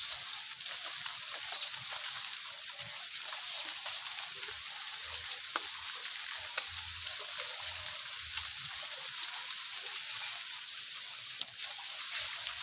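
Water sloshing and splashing over a steady wet hiss, with a few soft thumps and sharp clicks scattered through.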